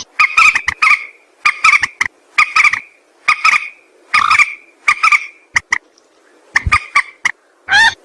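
Mandar sawah (a rail) calling: a loud series of short, harsh notes in quick clusters about twice a second, with a brief pause near the end before the calls resume.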